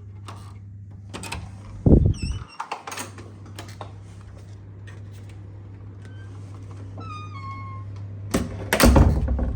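Hotel room key card door lock: a thud and a short electronic chirp about two seconds in, then a falling run of electronic beep tones as the lock releases, followed near the end by the loud clunk and clatter of the handle and door. A steady low hum runs underneath.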